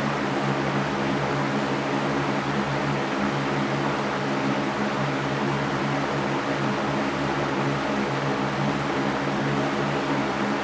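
Electric fan running steadily: an even rush of air over a low motor hum, with no change in speed.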